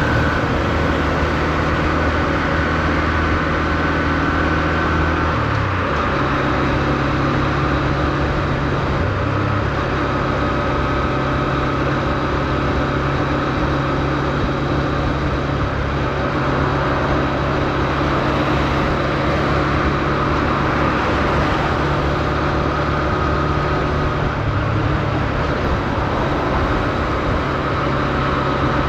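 Honda CB125F's single-cylinder 125 cc engine running at low revs on the road, kept low because the engine is being run in. The engine note holds steady and shifts pitch about six seconds in, over a steady rushing noise.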